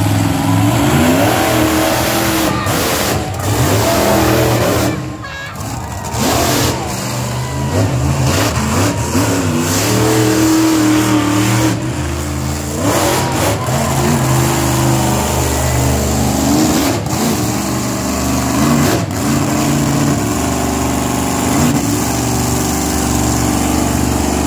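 Mini monster truck engines running and revving, the pitch repeatedly climbing and easing off, with a brief lull about five seconds in.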